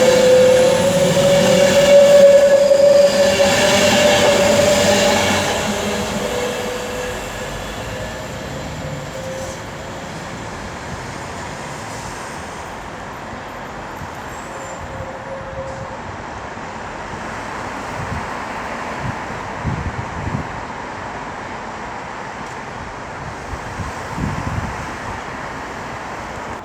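A train on the move with a steady whine, loud for the first few seconds and fading away by about eight seconds in. After that a lower steady rumble remains, with a few soft knocks near the end.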